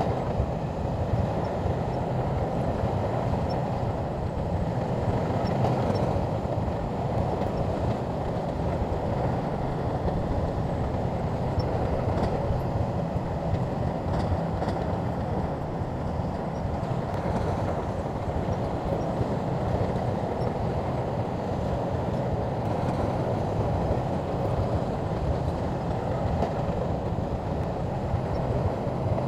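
Shantui crawler bulldozer's diesel engine running steadily as the machine works, a continuous low mechanical drone with no pauses.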